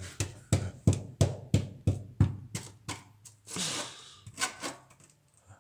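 A run of sharp knocks, about three a second for some three seconds, then a short rushing noise and two more knocks.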